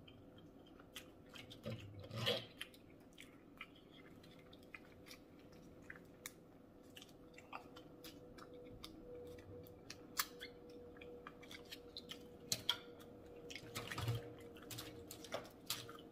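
Quiet, close-miked chewing of king crab meat, with scattered small clicks and cracks as the crab is picked apart by hand, over a faint steady hum.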